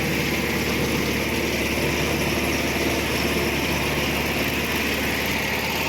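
Engine of a homemade ride-on zero-turn lawn mower running steadily.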